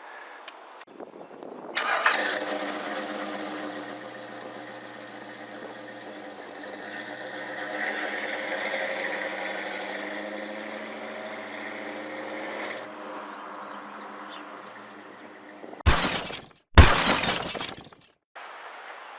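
A motor vehicle's engine running steadily for about eleven seconds, starting suddenly, swelling and then cutting off abruptly. Near the end come two short, loud bursts of noise.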